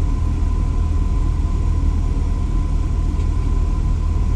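A steady low rumble with a thin, steady higher tone, unchanging throughout: constant background machine hum.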